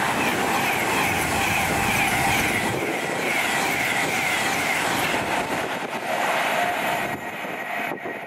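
A train running past on the main line, with a steady loud rush of wheels on rail and a wavering high-pitched tone that repeats about every half second, dying away about seven seconds in as the sound drops off.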